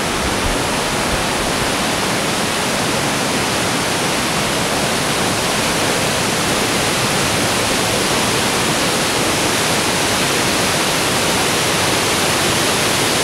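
Waterfall: loud, steady rushing of falling water close by, an unbroken dense noise.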